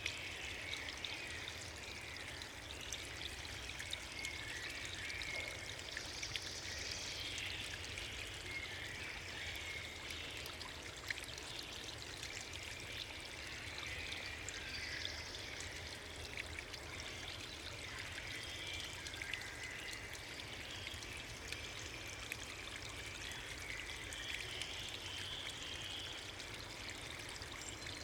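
Rushing water, steady and continuous, with no break.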